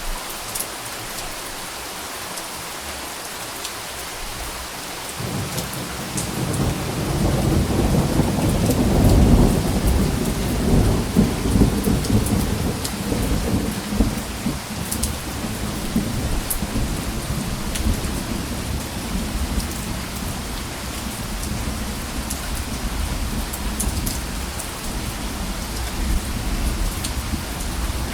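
Steady rain falling with scattered drop taps, and a long low rumble of thunder that builds about five seconds in, peaks a few seconds later and slowly fades under the rain.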